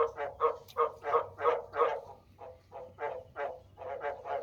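Male frog giving its mating call: a quick run of short, nasal croaks, about three a second, a little softer in the second half.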